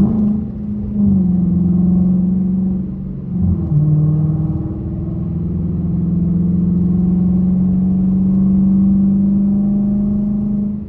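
Dodge Challenger R/T's 5.7-litre HEMI V8 heard from inside the cabin as the car accelerates to highway speed. About three and a half seconds in the engine note drops briefly with a gear change, then climbs slowly as the engine is held in that gear.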